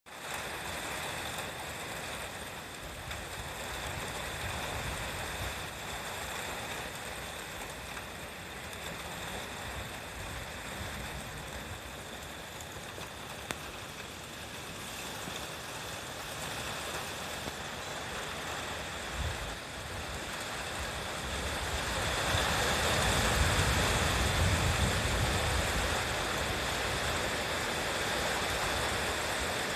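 Strong gusty yamaji wind with rain: a steady rushing hiss with wind rumbling on the microphone, swelling louder about three-quarters of the way through.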